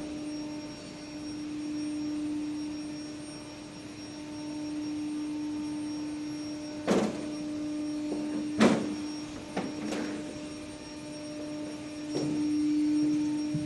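A steady one-pitch electrical hum that slowly swells and fades, with a handful of sharp knocks in the second half, two of them loud.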